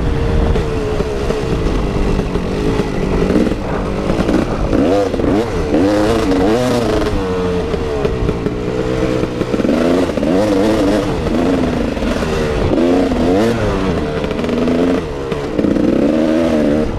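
KTM 380 EXC two-stroke single-cylinder dirt bike engine on a motocross track, its pitch repeatedly rising and falling as the throttle is opened and shut through jumps and corners.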